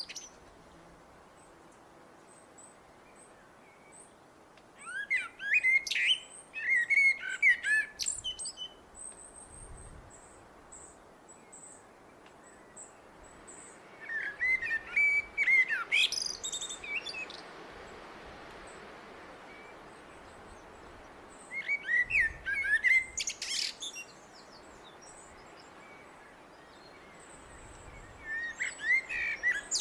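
Blackbird singing: phrases of low, fluty warbling that end in high, squeaky notes, with pauses of several seconds between them, four or five phrases in all.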